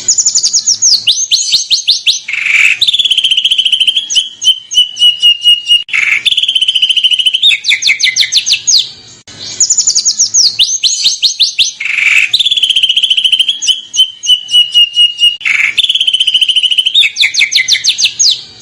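Recorded songbird song of the kind used as masteran tutor audio: runs of very fast, high, downward-sweeping notes alternating with rapid trills. The same phrase plays twice, repeating about halfway through.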